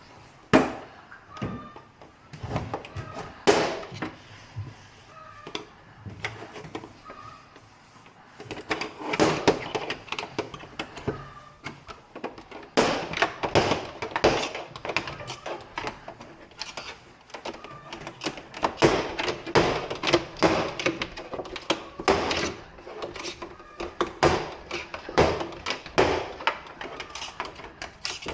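Irregular knocks, clicks and taps of hands and tools handling a flat-screen TV's plastic casing while it is taken apart for repair. The strikes come densely and unevenly, busiest from about a third of the way in.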